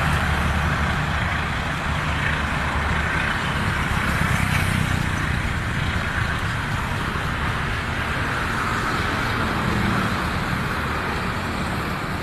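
Majapahit passenger train running, a steady rumble with a low engine drone and wheel-on-rail noise.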